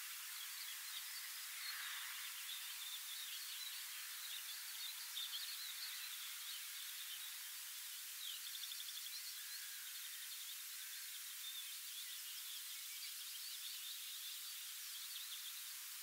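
Faint birdsong in open country: several small birds chirping and trilling over a steady hiss, with a rapid trill about eight seconds in.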